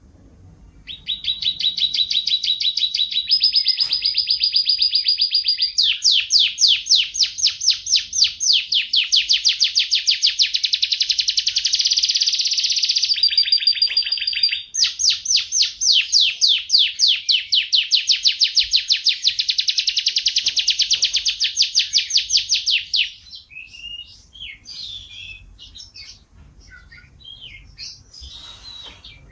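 F1 canary singing one long, loud song of rapid trills and repeated notes, changing pitch and pattern every few seconds. About 23 seconds in it breaks off into scattered short, quieter chirps.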